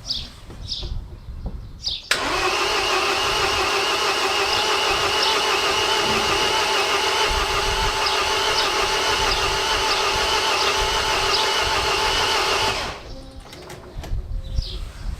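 Starter motor cranking the MINI R56's 1.6 HDi DV6 diesel engine. It cranks at a steady pitch for about ten seconds without the engine catching, then stops a couple of seconds before the end: the engine won't start.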